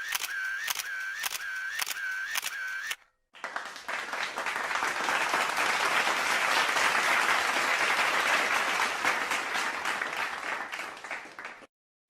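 A repeating mechanical clicking, about two clicks a second, stops about three seconds in. After a brief silence, audience applause builds and then fades away.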